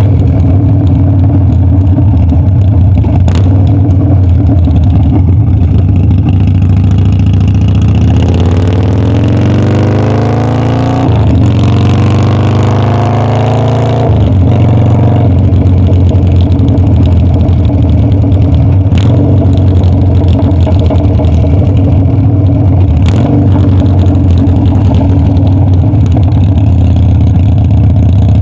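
Harley-Davidson Dyna's V-twin engine under way. Its pitch climbs twice about a third of the way in, with a short break between the climbs like a gear change, then it settles back to a steady drone.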